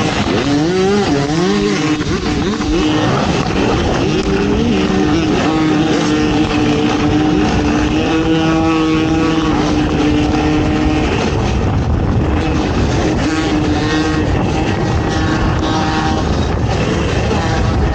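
ATV engine racing over rough ground: revving up and down quickly at first, then held at a steady high pitch for several seconds before changing again near the end.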